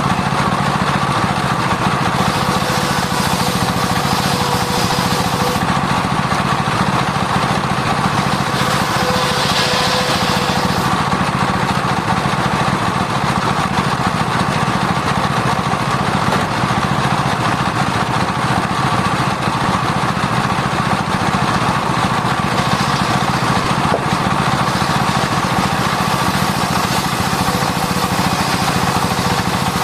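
Circular disc sawmill running steadily while sawing sengon (albizia) timber, a continuous machine drone with a steady whine.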